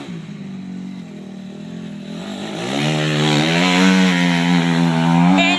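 Dirt bike engine running at low revs, then rising in pitch and getting louder about halfway through and holding at high revs.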